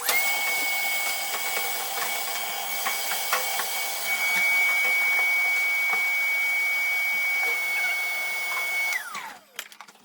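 Shop vacuum switched on and running with a steady high whine and scattered clicks of debris being sucked up, then switched off about nine seconds in, its whine falling as the motor spins down.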